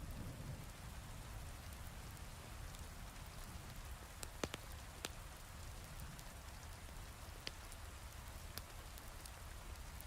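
Steady heavy rain, with a few sharp pops from a crackling fireplace, the loudest about four and a half seconds in.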